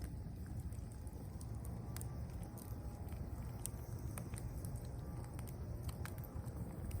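Campfire burning, with scattered light crackles and pops over a steady low rumble.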